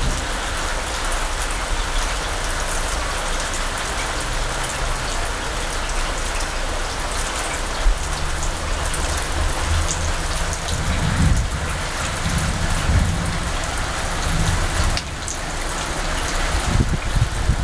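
Heavy rain falling steadily during a thunderstorm. Low rumbles swell up around the middle and again near the end.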